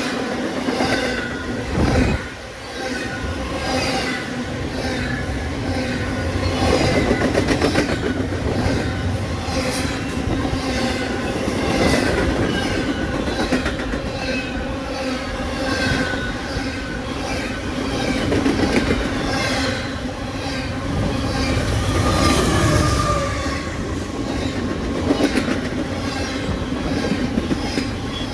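A train rolling past, its steel wheels clacking over the rail joints in a continuous, repeating rhythm over a steady rumble.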